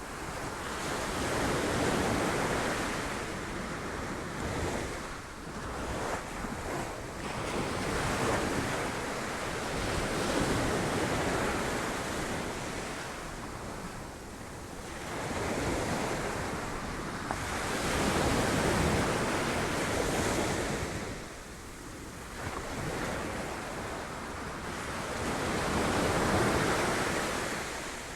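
Sea waves breaking on rocks, a continuous rushing surf that swells and ebbs, with several larger surges a few seconds apart. Wind buffets the microphone at times.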